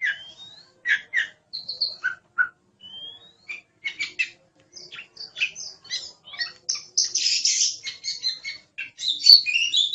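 Oriental magpie-robin (kacer) singing a fast, varied song of short chirps and rising slurred whistles, with a harsh rasping phrase about seven seconds in.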